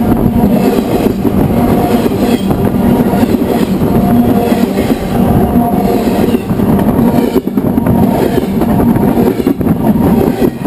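BNSF freight cars rolling past at close range, heard from track level: a continuous loud rumble of steel wheels on the rails, with wheel clatter and a steady low drone.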